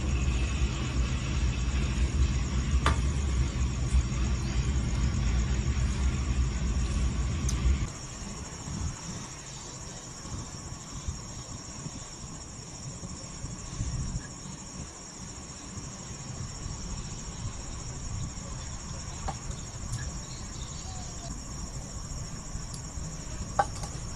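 Crickets chirping steadily in a continuous high trill. For the first eight seconds a heavy low rumble sits under them, then cuts off abruptly, leaving the insects over a quiet background.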